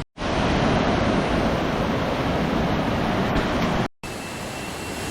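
Steady rush of a waterfall's falling water, loud and even. About four seconds in it cuts off abruptly at an edit, and a quieter steady noise follows.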